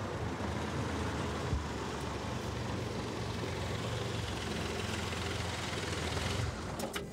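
Mini hatchback's engine running steadily, a low hum under an even hiss. The hum drops away near the end, where a couple of short clicks follow.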